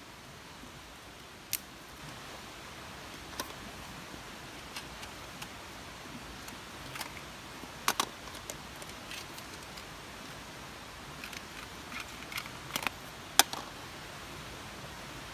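Scattered sharp clicks and light knocks, about a dozen, over a steady hiss; the sharpest click comes near the end.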